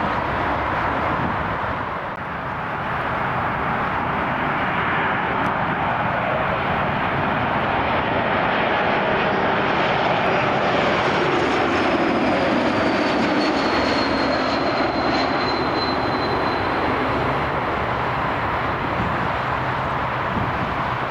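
Jet airliner's engines passing: a steady rushing noise with a high whine that slides down in pitch about halfway through.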